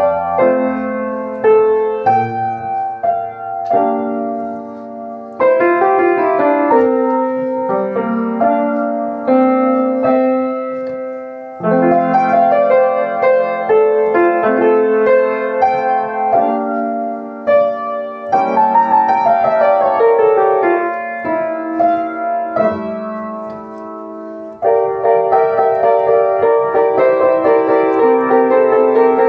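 Solo piano playing a light piece in short phrases, with a new, louder phrase starting about every six seconds.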